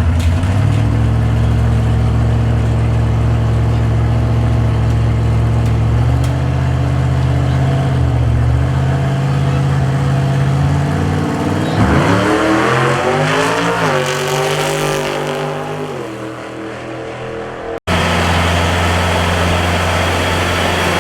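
A car engine running steadily, then accelerating hard, its pitch climbing in two sweeps before it falls away. An abrupt cut near the end gives way to a steady engine drone again.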